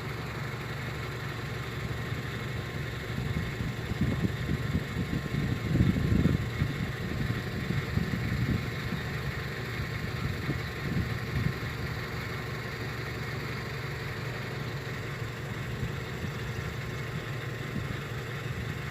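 Car engine idling with a steady low hum. Louder, irregular low rumbling comes and goes about four to seven seconds in and again briefly near the middle.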